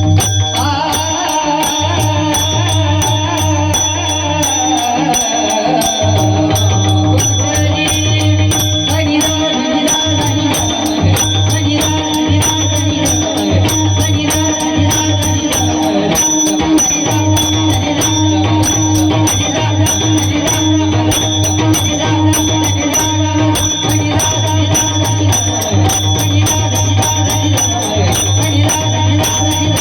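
Devotional kirtan music: a voice singing over held drone tones, with a steady, fast rhythm of jingling metal percussion.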